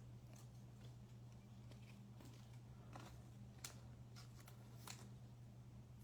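Near silence: a steady low electrical hum with a few faint, short clicks.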